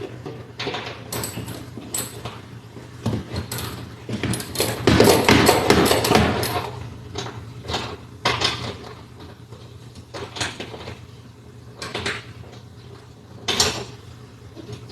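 Irregular knocks, clicks and clatter of hand tools and loose metal and plastic parts being handled while a car interior is stripped, with a denser rattling spell about five seconds in.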